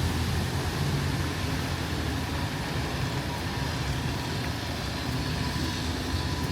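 Street traffic: a motor vehicle's engine running steadily over a low rumble.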